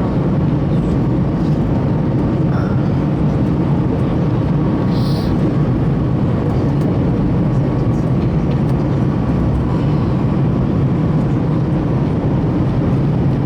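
Steady low cabin rumble inside an Airbus A321, the engine and aircraft noise heard from a passenger seat, with a faint steady hum running through it. A brief faint high blip sounds about five seconds in.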